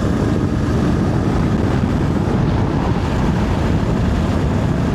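Voge DS525X parallel-twin motorcycle under way at road speed, with a steady rush of wind over the helmet-mounted microphone mixed with the engine's low running note.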